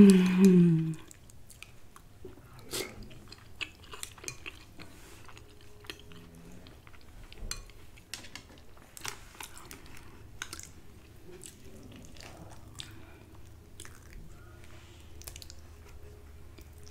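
Close-miked chewing of soft food, with scattered wet mouth clicks and light clicks throughout. A short loud burst of voice opens it in the first second.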